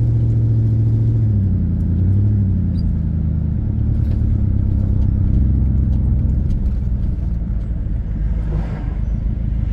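Car engine and road rumble while driving: a loud, steady low drone whose engine note dips and rises again between about one and two and a half seconds in, then holds steady.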